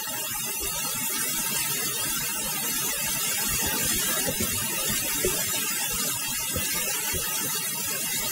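Fried rice sizzling in a hot frying pan as it is stirred with a spatula: a steady hiss with soft scraping of the rice against the pan.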